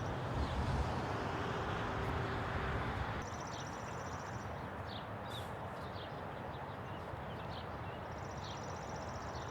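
Outdoor birdsong: a high, buzzy trill about a second long sounds twice, about four seconds apart, with short high chirps between. A low rumble, like wind on the microphone, runs for the first three seconds and then drops away.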